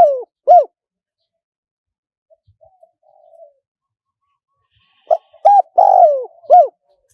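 Spotted dove cooing: the end of one phrase at the start, then about five seconds in a full phrase of several short coos with one longer coo that falls in pitch. It is the wild-type, small-voiced call used as a decoy to draw in wild doves.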